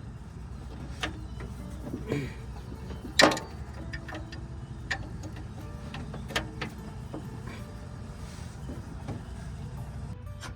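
Hand-tool clicks and metal clinks as a wrench unscrews a fuel line flare nut from a mechanical fuel pump, with several separate sharp knocks, the loudest about three seconds in, over a steady low hum.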